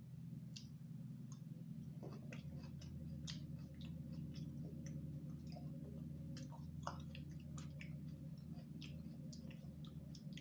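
Close-miked chewing of fufu and soup: soft wet mouth clicks and smacks, scattered irregularly, over a steady low hum.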